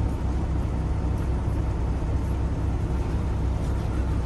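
Steady low rumble of a semi truck's diesel engine and road noise heard from inside the cab.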